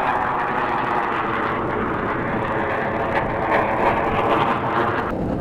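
A loud, steady airplane engine noise from an air show flyby. Its higher part drops away abruptly just before the end.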